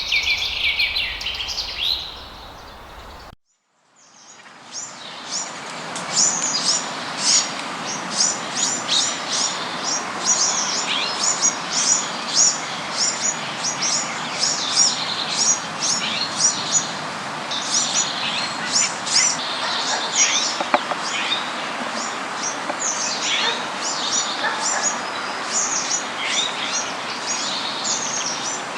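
Birds singing and chirping. About three seconds in the sound cuts out briefly. After that, a dense chorus of many short, high-pitched chirps repeats rapidly over a steady background hiss.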